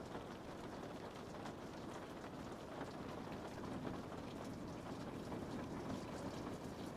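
Steady rain falling on a window, a continuous patter with many small drop ticks on the glass.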